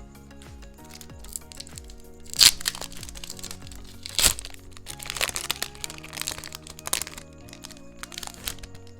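Crinkling and crackling of Pokémon card packaging being handled and opened, with two sharp cracks about two and a half and four seconds in and a run of crinkles after, over background music.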